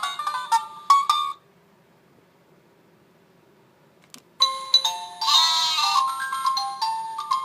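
Tinny electronic melodies from a children's play-a-sound book speaker: one jingle ends about a second in, a button clicks after a pause, and a new chiming tune starts, with a brief wavering cry in the middle of it.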